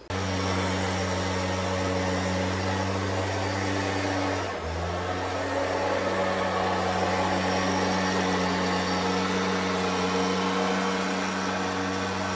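Stihl BR340 leaf blower's two-stroke engine running steadily with the fan blowing. Its speed dips briefly about four and a half seconds in, then picks back up.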